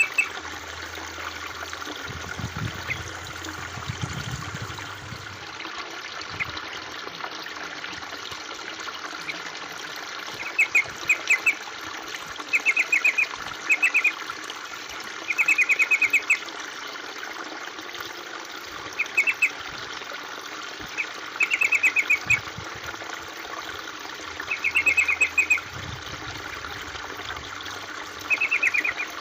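Water trickling steadily, with a bird's short bursts of rapid chirps about ten times from roughly a third of the way in; the chirps are the loudest sound.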